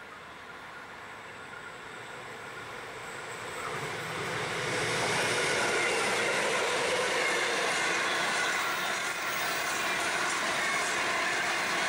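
Two 81 class diesel-electric locomotives approaching and passing at the head of a coal train, growing louder over the first five seconds. The coal hopper wagons then roll past with steady wheel and rail noise.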